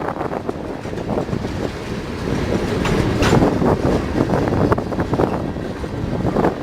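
Railroad cars rolling past, their wheels clattering in a rapid, irregular run of clicks and knocks over the rail.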